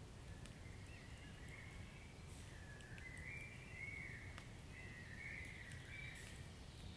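Log fire burning quietly: a low rumble with a few faint crackles and a thin, wavering high whistle.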